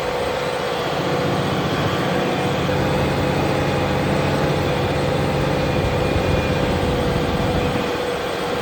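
Fendt tractor's engine running steadily while pulling a plough, with a steady whine above the engine note.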